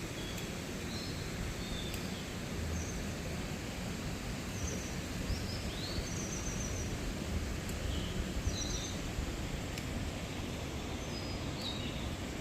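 Steady rush of a mountain stream, with small birds giving short, high chirps and brief trills every second or two.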